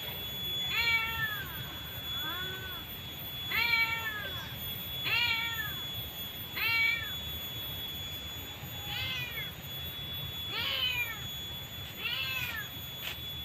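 An animal's high mewing call, rising then falling in pitch, repeated about nine times, roughly one every one to two seconds.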